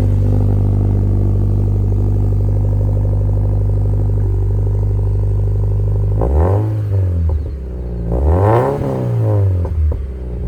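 Car engine idling through a modified exhaust, then revved twice in quick blips that rise and fall back to idle.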